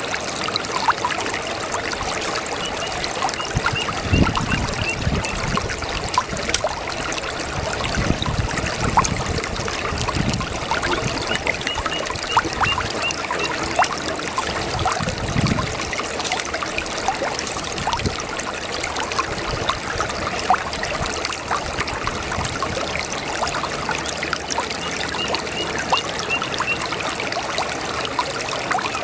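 A babbling brook: water trickling and gurgling steadily over stones, with a few deeper gurgles. A faint, high run of short pips comes back three times.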